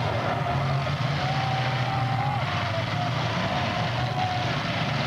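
Demolition derby cars' engines running, a steady loud din with a thin wavering whine above it.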